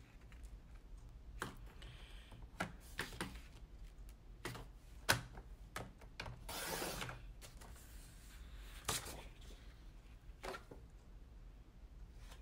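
Paper being handled and cut on a Stampin' Up! paper trimmer: scattered light clicks and taps, and one short swish of the blade sliding through the paper about seven seconds in.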